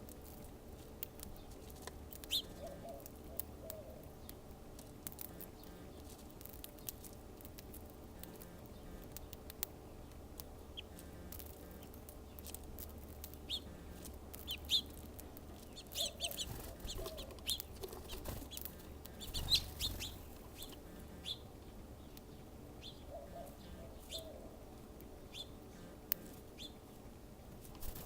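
Wild birds chirping, with short high chirps scattered throughout and a few lower calls in small clusters, plus light flutters and clicks.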